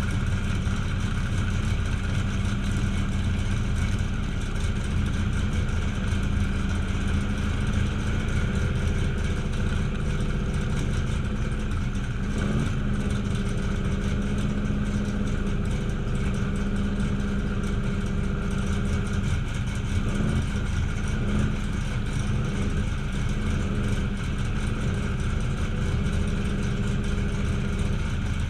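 Car engine idling steadily, with slight changes in pitch about twelve and twenty seconds in.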